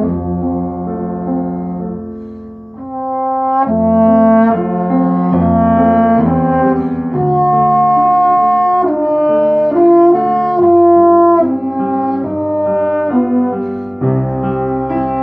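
Instrumental ensemble music: several instruments hold notes together and move from chord to chord. It is softer about two seconds in and fuller from about four seconds in.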